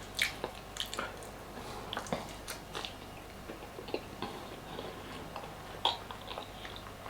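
A person chewing food close to the microphone, with scattered short wet mouth clicks.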